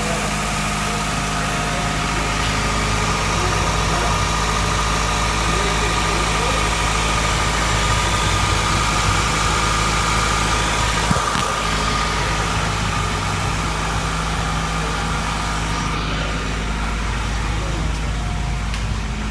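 Freshly swapped Honda B18C 1.8-litre DOHC VTEC four-cylinder engine idling steadily on its first start-up, with a steady whine above the engine hum.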